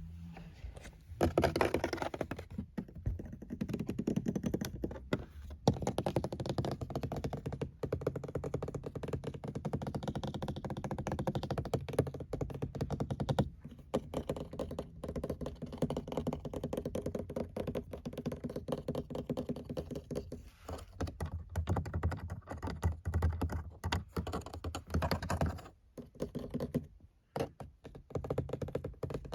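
Fast, continuous tapping on the surfaces of a car, a dense run of quick taps with a few short breaks.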